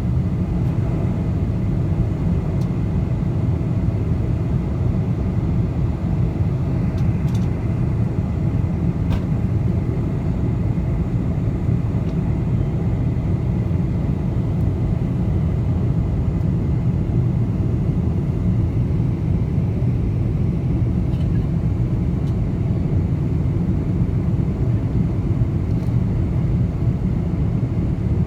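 Steady low cabin rumble inside a Boeing 747 on its descent, the drone of the engines mixed with airflow noise, with no change in level. A faint steady whine sits above it.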